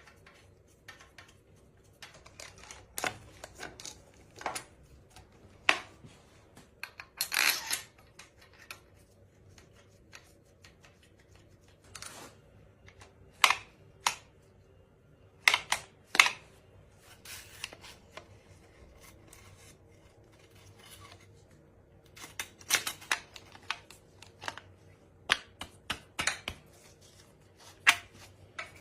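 Irregular metallic clicks and clinks of hand tools and engine parts being handled, with a short scraping rattle about seven seconds in and a quick run of clicks near the end.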